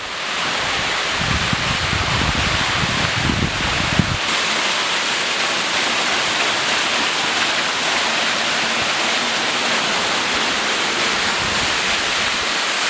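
Waterfall rushing steadily, a constant wash of falling water. A low rumble sits under it for the first four seconds or so.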